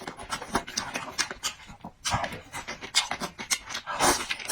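Close-miked eating sounds: chewing with many wet smacks and clicks, and a few short noisy breaths or slurps.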